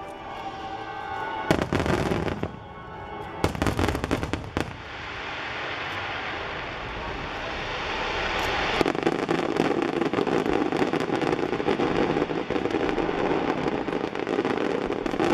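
Aerial fireworks bursting: two loud clusters of booms in the first few seconds, then, from about nine seconds in, a dense steady crackling of many small reports.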